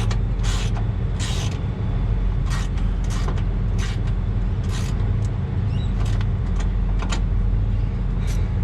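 A diesel engine idling steadily, with irregular sharp clicks and clinks of hand tools on metal over it.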